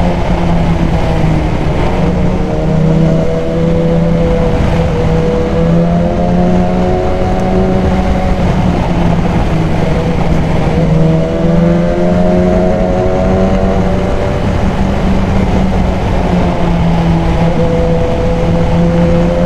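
BMW S1000XR's inline-four engine, fitted with a K&N high-flow air filter, pulling under acceleration. Its pitch climbs over a few seconds, then drops back at each upshift, several times in a row.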